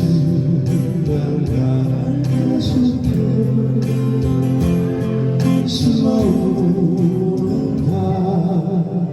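Live band playing a slow ballad: guitar and other instruments under a sung melody line.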